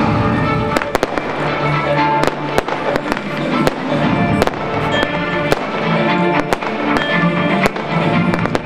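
Fireworks going off: sharp bangs and cracks at irregular intervals, roughly one or two a second, over music playing throughout.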